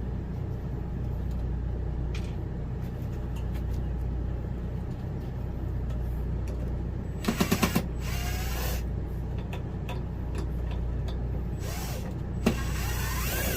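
Power drill driving screws into cabinet wood in two short runs: one about halfway through, which starts with a quick rattle and spins up in pitch, and one near the end. A steady low hum runs underneath.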